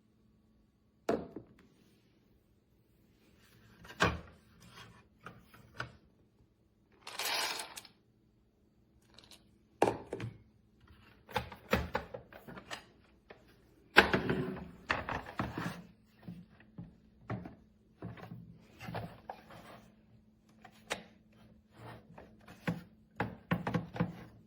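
Irregular knocks, clicks and clinks against a raised plastic feeder stand and its stainless steel bowl, as a dog eats from it, with one brief rustle about seven seconds in and a busier clatter about halfway through.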